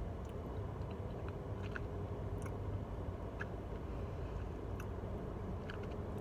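A person chewing a soft dessert with her mouth closed, with small scattered mouth clicks, over a steady low hum inside a car cabin.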